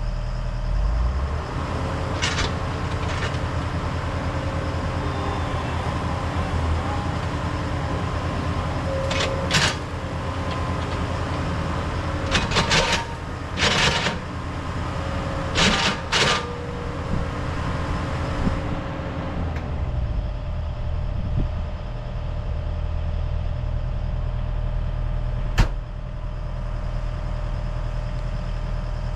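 Heavy equipment diesel engine running steadily at low revs, with a higher whine over it for the first two-thirds. Several short sharp clanks come in small groups, and one single crack near the end.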